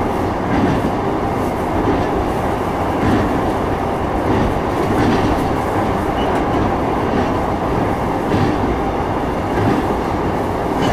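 Running sound of a JR East E233-3000 series electric train at speed: a steady rumble of wheels on rail, with faint clicks now and then as the wheels pass rail joints.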